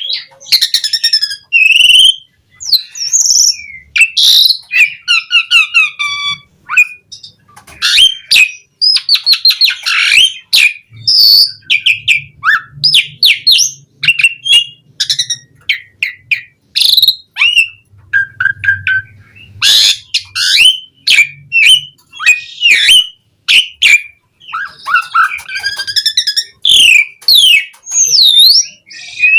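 Asian pied starling (jalak suren) in full song: a dense, varied stream of chirps, whistled glides, trills and sharp clicking notes with hardly a pause, the rich fill-in phrases kept birds use to coax other starlings into song.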